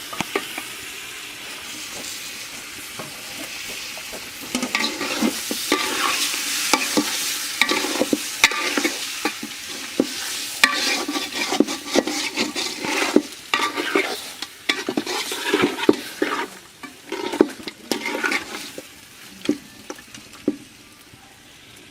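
Food sizzling as it fries in a pan. It is stirred with a spatula, which scrapes and clatters against the pan again and again from about four seconds in.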